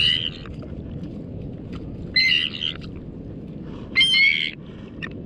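A bird hooked and tangled in fishing line calling in distress: three calls about two seconds apart, each about half a second long.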